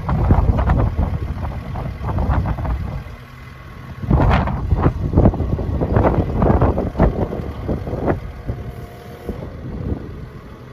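Takeuchi TL12V2 compact track loader's diesel engine running, with a steady low rumble under irregular knocks and bumps; it drops quieter for about a second partway through.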